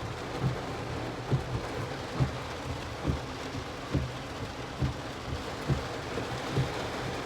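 Heavy rain falling, a steady hiss, with a deep bass-drum beat thumping about once a second underneath.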